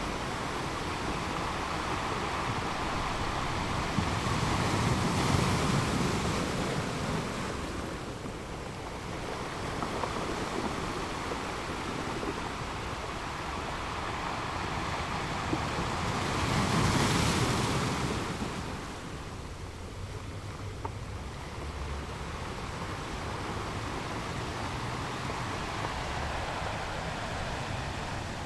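Sea surf washing onto a beach: a continuous rush of breaking waves that swells twice, about five seconds in and again a little past halfway, then settles back to a steady wash.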